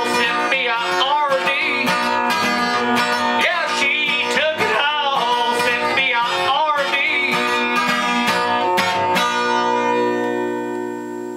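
An acoustic guitar song, strummed with a wavering sung melody over it; about nine seconds in the strumming stops and a last chord is left to ring and fade.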